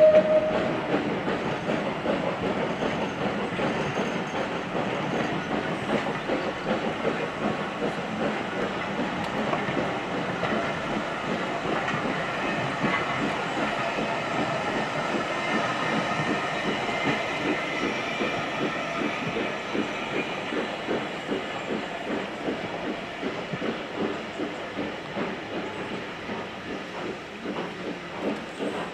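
A train rolling past on the line, its wheels clicking rapidly and steadily over the rail joints. The sound slowly fades toward the end as it moves away.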